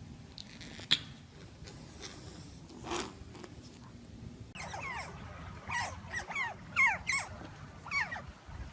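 A sharp click about a second in. From about halfway, an animal gives a run of short, high cries that fall in pitch, several a second.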